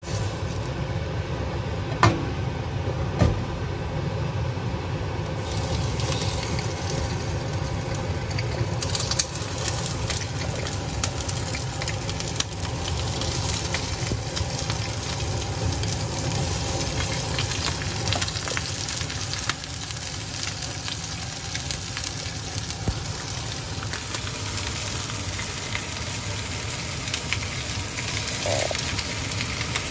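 Split prawns sizzling in hot oil in a nonstick frying pan as they are laid in one at a time. The sizzle fills out after about five seconds, over a steady low rumble, with two sharp knocks a couple of seconds in.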